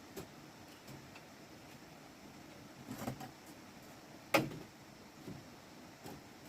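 A few scattered knocks and taps over a quiet background, with a cluster about three seconds in and one sharper, louder knock a little after four seconds.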